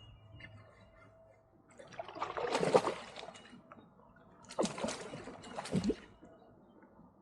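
Water splashing and sloshing in two bursts, about two seconds and four and a half seconds in, each lasting over a second.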